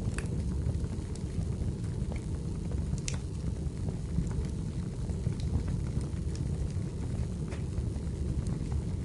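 Wood fire burning in a fireplace: a steady low rumble with scattered sharp crackles and pops of the firewood, one louder pop about three seconds in.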